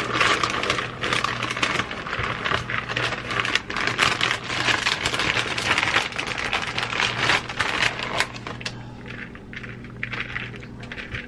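Shredded soy mozzarella being measured and tipped into a bowl: a dense run of small clicks and rustling for about eight seconds, thinning out near the end.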